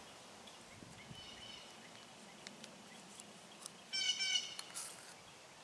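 A bird chirping faintly, a short call about a second in and a louder, longer call near four seconds, with a few faint clicks.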